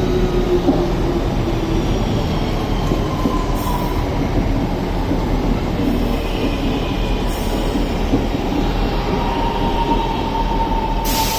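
Class 323 electric multiple unit running into the platform: a steady rumble of wheels on rail, with a thin high whine that falls slightly in pitch, once near the middle and again toward the end.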